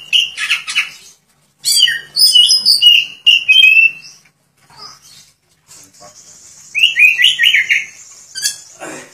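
Oriental magpie-robin (kacer) singing loud, rapid phrases of varied whistles and chirps. The song comes in three bursts, with a pause of a couple of seconds in the middle.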